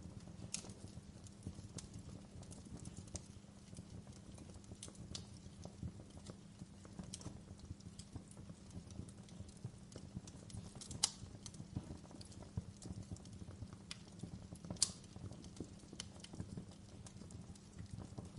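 Wood fire crackling in a fireplace: a steady run of small pops and snaps burning low and even. Two snaps stand out louder, one a little past the middle and one later.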